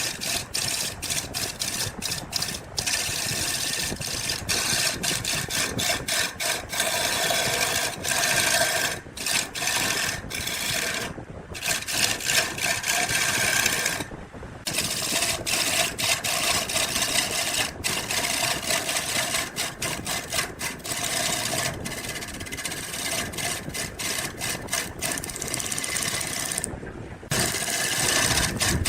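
An electric power tool running as it works wood, its motor holding a steady note, broken by many brief gaps and a few longer ones of about a second.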